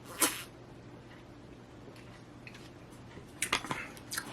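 Close-up eating sounds as a fish sandwich is chewed: a brief noisy burst near the start, then a cluster of short clicks and smacks about three and a half seconds in.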